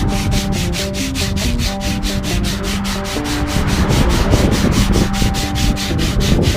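Sandpaper rubbed back and forth along a wooden guitar neck as it is shaped round, in quick even strokes of about six a second.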